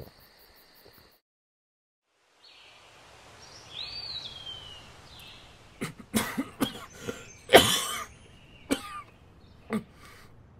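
A man coughing in a fit of about eight harsh coughs, the longest and loudest near the middle. Before it, crickets chirp for about a second, then after a gap comes quiet outdoor air with a single bird call.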